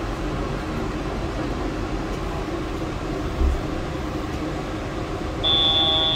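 Steady hum and rumble inside a driverless Yurikamome train car, then near the end a single high electronic beep lasting about a second.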